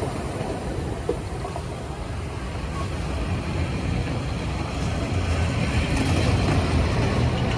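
Low, steady rumble of a moving vehicle, growing louder about three seconds in.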